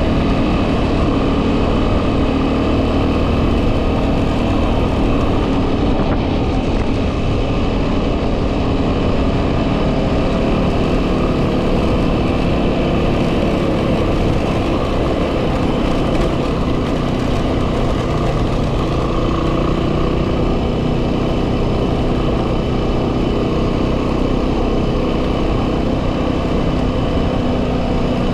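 2010 Yamaha WR250R's single-cylinder four-stroke engine running at a steady pace while riding, mixed with heavy wind noise buffeting the microphone.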